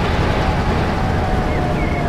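Train running: a steady, loud rumbling noise with a faint constant whine, and a few short high squeals near the end.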